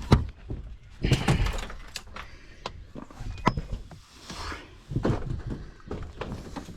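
A string of irregular knocks and thuds with rustling between them, as of objects being handled and set down; the heaviest thuds come at the start and about a second in.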